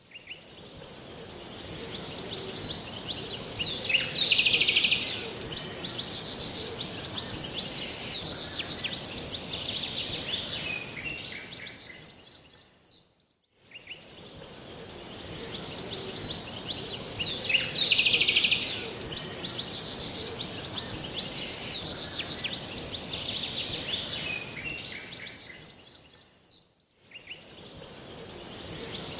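Small songbirds chirping and trilling over a steady hiss of outdoor background noise, with one short loud, rapid trill standing out. The sound fades out and back in twice, repeating the same stretch each time.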